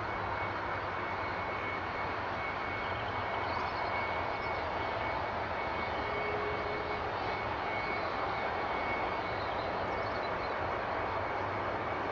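Boeing 757 jet engine running steadily on the ground: an even rush with a steady high whine. Only the left engine is running; the other engine was lost to a bird strike.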